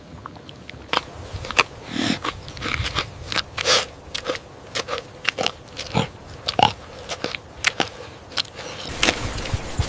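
An animal chewing and crunching food: irregular crisp crunches and clicks, a few to several a second, with no steady rhythm.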